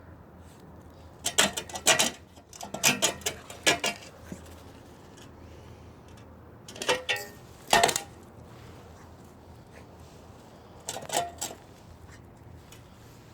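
A dog barking in several short runs of a few sharp barks each, with pauses of a few seconds between runs.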